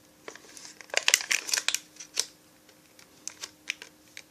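Packaging crinkling in short crackly bursts as kit parts are handled and unwrapped, with a quiet pause in the middle.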